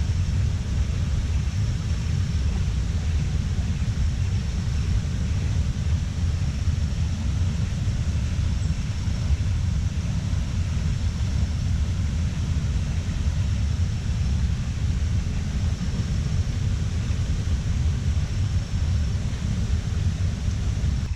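Steady low rumble of wind buffeting the microphone, with a faint, steady high-pitched hum behind it.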